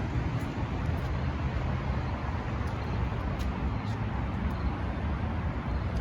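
Small engine of a 1970 Bird minibike idling steadily with a low, even rumble.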